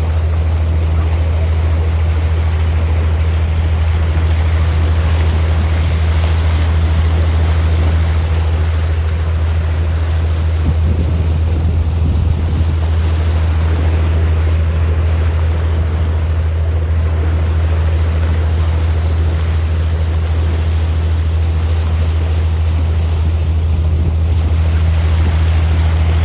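A boat engine runs with a steady low drone, under continuous wind and water rush.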